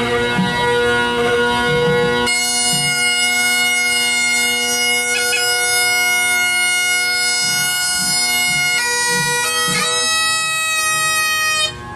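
Highland bagpipes with the drones sounding and the chanter filling in about two seconds in, playing long held notes that change a couple of times near the end. The pipes then cut off abruptly: a false start, which the piper puts down to the heat's effect on the pipes.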